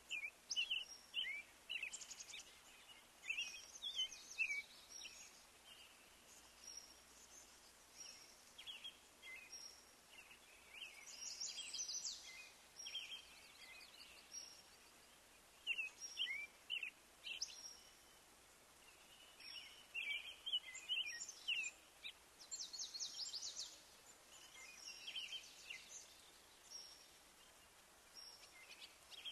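Songbirds singing: bursts of short chirps, whistled sliding notes and quick trills, with short pauses between, over faint steady background hiss.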